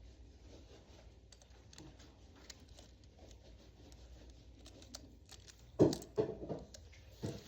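Small clicks and rustling of objects being handled, then a few louder knocks near the end.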